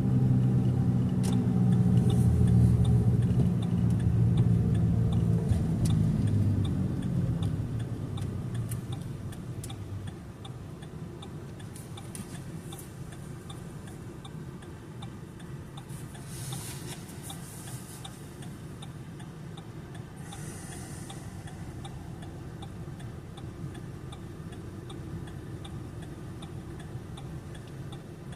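A vehicle's engine running loudly, its pitch sinking as it slows, then fading away by about ten seconds in. After that a steady, evenly spaced ticking is left, with two brief swells of hiss.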